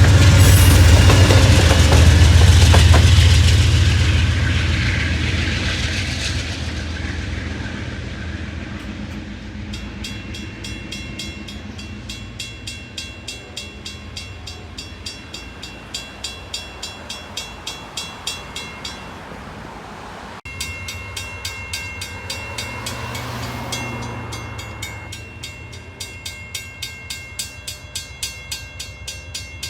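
Amtrak Downeaster passenger train passing over a road crossing, a heavy rumble that dies away over the first several seconds. Then the crossing's warning bell rings with even, regular strokes, running on after a cut while a swell of train noise rises and falls near the three-quarter mark.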